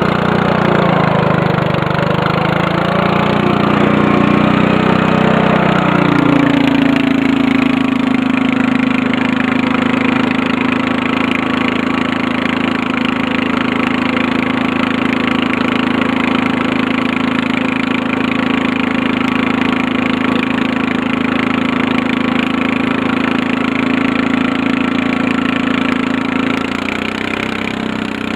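Murray riding lawn mower engine running under load while driving through snow: its speed dips and climbs for the first six seconds or so, then holds steady, and eases off near the end.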